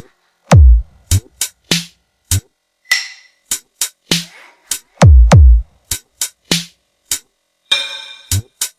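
Sound-check music played loud on a mobile sound system: a choppy electronic drum-machine beat of sharp, cut-off hits, with very deep bass booms sliding down in pitch about half a second in and again around five seconds in.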